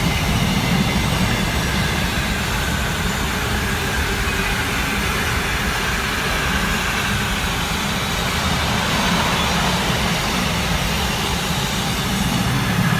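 Freightliner container freight train passing at line speed, its wagons running over the rails with a steady rumble.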